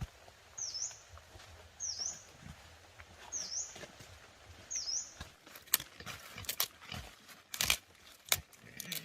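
A bird giving a short, high, dipping chirp five times, about once every second and a half. It is followed by a run of sharp cracks and knocks in the second half.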